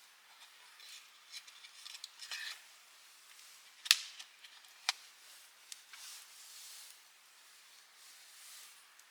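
Wood campfire crackling: scattered sharp pops and snaps over a faint hiss, the loudest pop about four seconds in and another about a second later.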